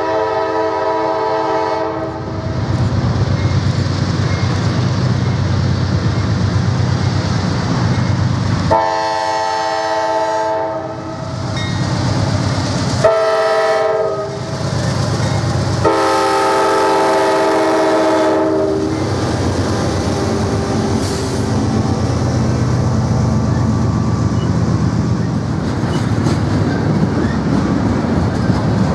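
CSX diesel locomotives working under power as a double-stack container train pulls away, the lead unit sounding its multi-chime air horn in long, long, short, long blasts, the grade crossing signal. After the horn the locomotives and stack cars pass with a steady rumble and wheel clickety-clack.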